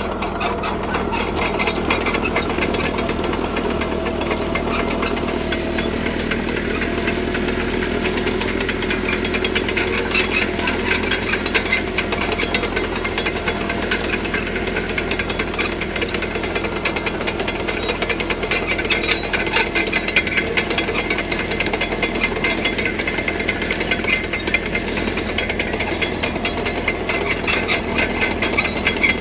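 CAT D3K crawler bulldozer working: its diesel engine runs steadily under load while its steel tracks clatter and rattle continuously.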